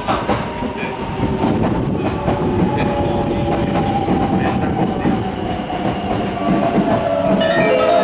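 Electric train moving slowly along the platform, with a motor whine that falls steadily in pitch as it slows, over a low rumble and wheels clicking across rail joints.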